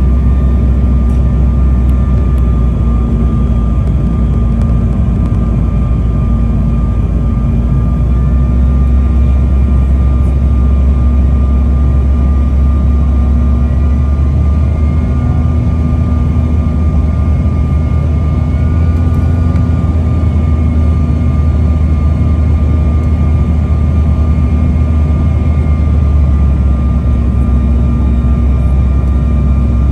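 Steady drone of an airliner's jet engines and airflow heard inside the passenger cabin during the approach to landing: a deep rumble with a thin, steady whine above it.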